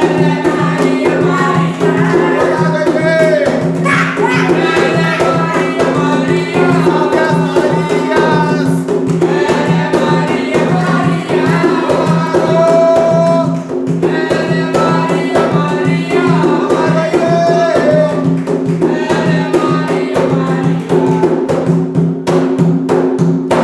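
Umbanda ponto sung by voices over fast, dense drumming, with a steady low drone beneath; the music stops at the very end.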